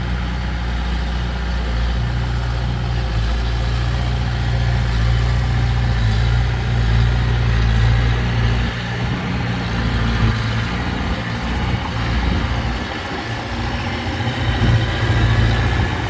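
Heavy earthmoving machinery's diesel engine running steadily, its deepest rumble thinning about nine seconds in.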